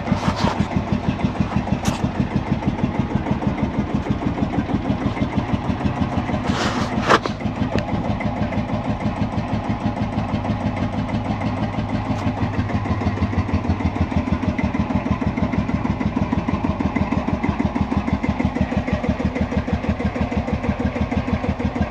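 1948 Field Marshall Series 2 tractor's single-cylinder two-stroke diesel running steadily at idle, a rapid, even train of exhaust beats. A brief sharp knock is heard about seven seconds in, with a couple of fainter clicks near the start.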